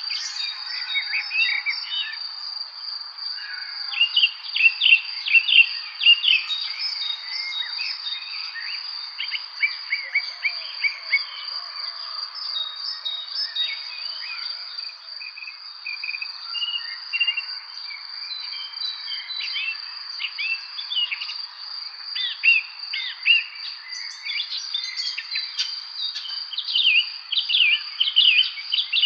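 Evening chorus of songbirds chirping and singing in quick short notes, many at once. Under them runs an unbroken, steady high-pitched insect trill.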